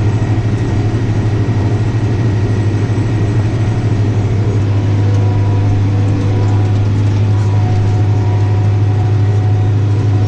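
Tractor engine running steadily under load as it works a front-mounted 10-foot mower, heard from inside the cab as a strong, even low hum.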